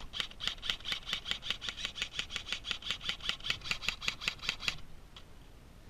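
A rapid, even series of sharp mechanical clicks, about six a second, running for nearly five seconds and then stopping abruptly.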